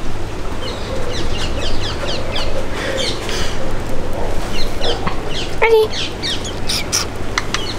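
Birds chirping: a run of short, quick, falling chirps, with one brief louder call about two-thirds of the way in, over a steady low hum.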